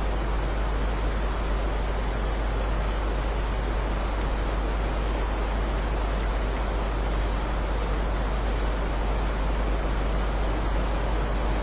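Heavy rain falling as a steady, even hiss with a deep rumble underneath, unchanging throughout.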